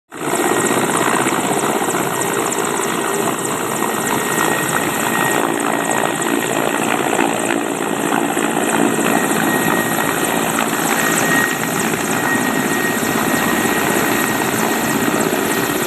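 Helicopter running steadily: a loud, continuous rotor and engine noise that does not let up.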